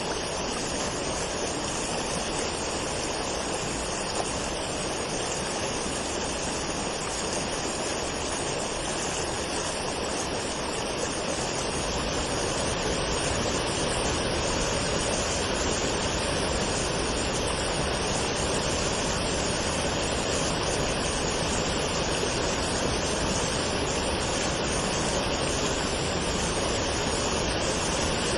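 Waterfall: water falling and rushing in a steady, unbroken noise, growing slightly fuller about twelve seconds in.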